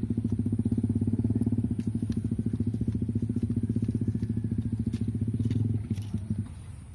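A small engine running with a fast, even pulse, then dying away near the end.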